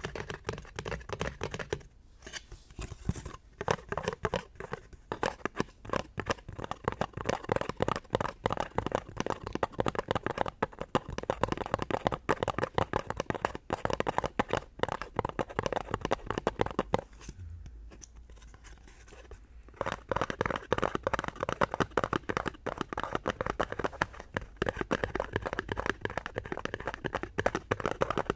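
Fast tapping with fingers on a hard object, close to the microphone: a dense, rapid run of crisp taps that pauses for about two seconds roughly two-thirds of the way through, then resumes.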